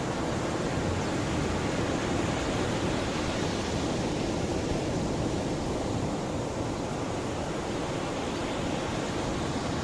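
Mediterranean sea waves washing steadily onto the shore: a continuous, even rush of surf with no single break standing out.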